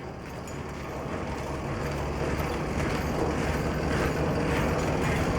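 A steady, low, vehicle-like rumble fading in gradually and growing louder.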